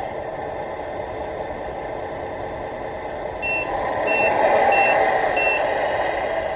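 Reversing beeper of a Tamiya Mercedes-Benz Actros RC semi truck, sounding four short, evenly spaced beeps of one high pitch a little past halfway, over a steady rushing noise.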